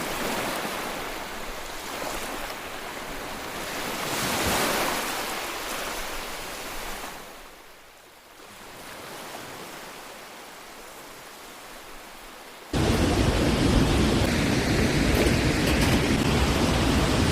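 Steady rushing of a large waterfall. It fades quieter around the middle, then about thirteen seconds in cuts abruptly to a much louder, deeper rush.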